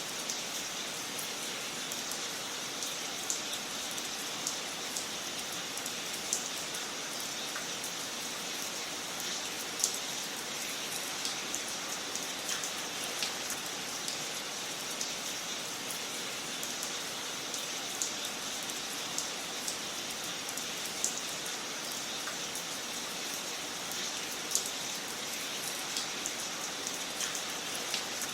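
Wood fire crackling in a fireplace: a steady hiss with frequent sharp pops and snaps at irregular moments.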